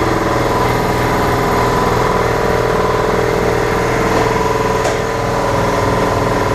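An engine running steadily at idle, an even unbroken hum, with a couple of faint metallic ticks about four and five seconds in.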